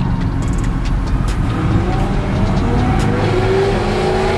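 Car engines running in a moving cruise: a steady low engine rumble, with an engine note climbing in pitch a couple of times as a car accelerates.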